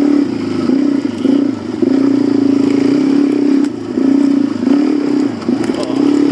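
Suzuki DR-Z400 dirt bike's single-cylinder four-stroke engine running on a trail ride. The throttle is opened and eased off over and over, so the engine note keeps swelling and dropping back.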